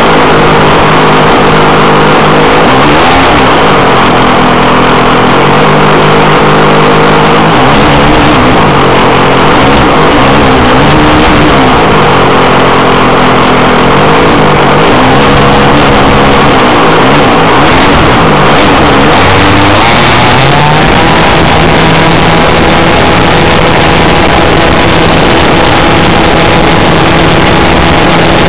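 Model aircraft's JBA75 engine running loud and continuous, its pitch repeatedly rising and falling with throttle changes in flight, then settling to a steady higher pitch about two-thirds of the way through.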